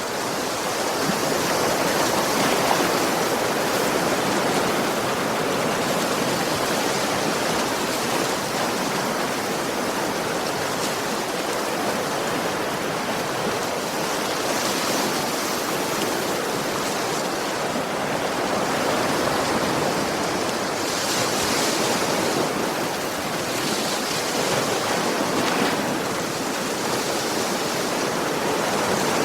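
Sea waves washing onto a beach: a steady rushing surf, with the hiss of a breaking wave swelling up every several seconds.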